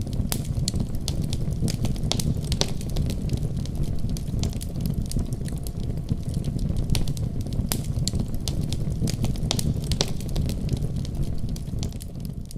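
Wood fire crackling in a fireplace: many sharp pops and snaps, irregular and several a second, over a steady low rumble.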